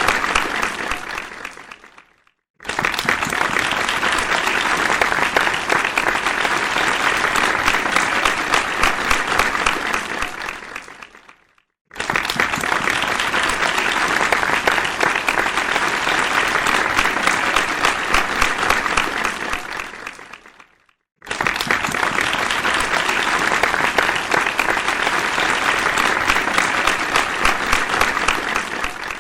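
Crowd applause, looped in takes of about nine seconds. Each starts suddenly at full strength, fades out and is followed by a brief silence, so the clapping breaks off three times.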